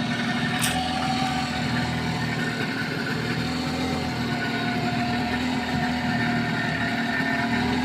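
Small generator-set engine running steadily at an even speed, powering the lamps for anchovy fishing, with one brief click about half a second in.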